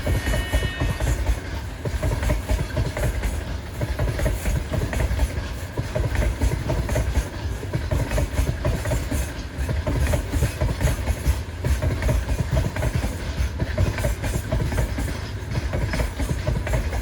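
A train rolling past close by: a steady heavy rumble with the rapid clickety-clack of wagon wheels over rail joints.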